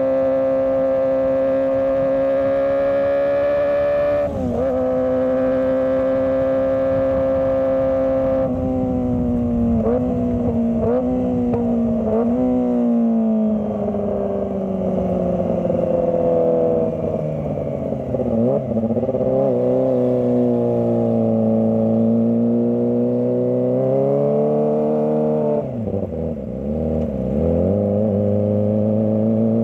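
Kawasaki ZX25R's 250 cc inline-four engine running at high revs, holding steady at first and dipping briefly about four seconds in. It then goes through a run of quick throttle blips and gear changes, falls slowly in pitch as it eases off, and builds again with another dip near the end.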